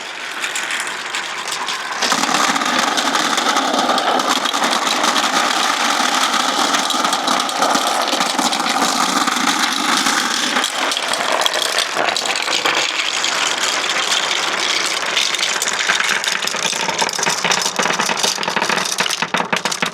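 Many marbles rolling and clattering together down a long marble-run ramp, a dense continuous rattle of small clicks. It grows louder about two seconds in and thins out near the end as the marbles run out.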